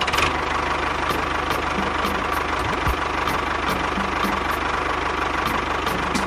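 Small engine of a homemade mini tractor cultivator running steadily at a fast even idle, starting abruptly.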